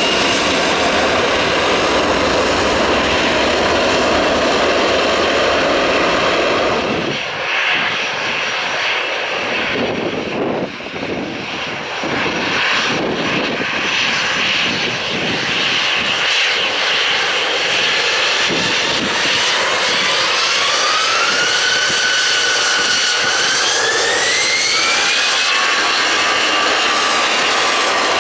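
Airbus A321 airliners' CFM56 turbofan engines. First a loud, dense jet noise from one aircraft at high thrust, which changes abruptly about 7 seconds in. Then a second A321's engines whine and rise steadily in pitch for several seconds before levelling off, as thrust is brought up for the takeoff run.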